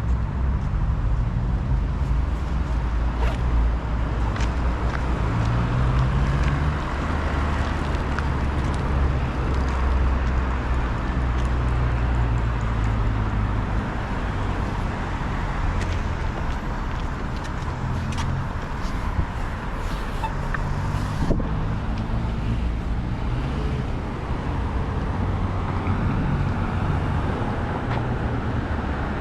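Road traffic on a city street: a steady low rumble of car engines and tyres passing, with a few faint sharp clicks.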